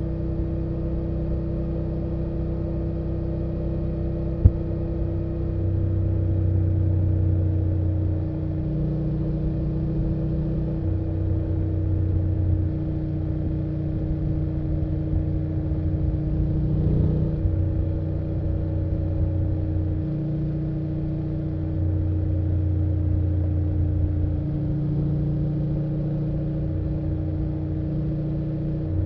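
BMW F800GS parallel-twin engine running steadily under way, its low drone swelling and easing every few seconds with throttle changes. One sharp click about four and a half seconds in.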